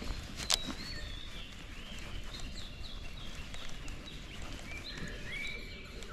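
Songbirds chirping and calling in short notes that slide up and down in pitch, over a low steady background rumble. A single sharp click comes about half a second in.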